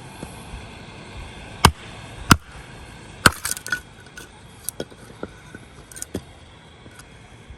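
A series of sharp, irregular knocks and clinks of hard objects being handled, with three louder knocks in the first half and a brief rattle after the third.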